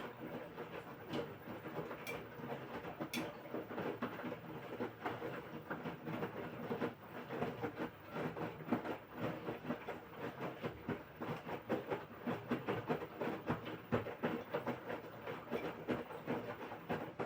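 LG washing machine in its wash phase, the drum turning wet laundry in water: a dense, uneven run of sloshing and clattering that stops abruptly near the end as the drum comes to a halt.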